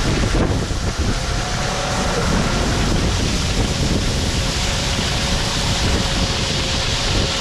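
Harvest machinery running steadily during corn harvest: a dense, even rushing noise with a faint steady hum underneath.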